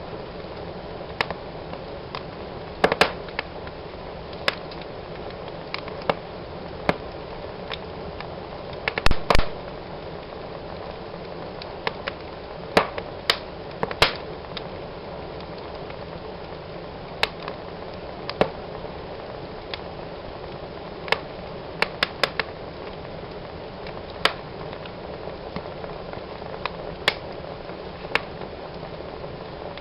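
Wood fire burning in a fireplace: a steady low rush of flames with irregular sharp crackles and pops, a few of them in quick clusters.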